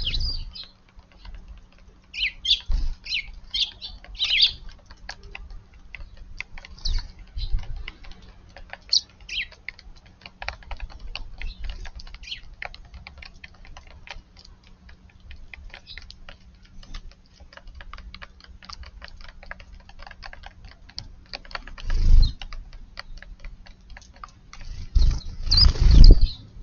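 Eurasian tree sparrows chirping, most busily in the first few seconds, over a constant patter of small ticks. There are two louder bursts near the end.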